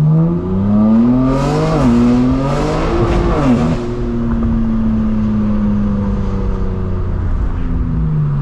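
Straight-piped BMW M4 Competition's twin-turbo inline-six accelerating hard, its pitch climbing and dropping sharply at two upshifts about two and three and a half seconds in, with a raspy exhaust noise during the pulls. It then settles into a steady cruise, its pitch sinking slowly.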